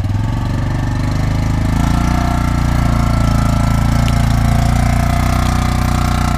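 Quad bike engine revving up over the first couple of seconds, then running steadily under load in low-range gear with four-wheel drive engaged.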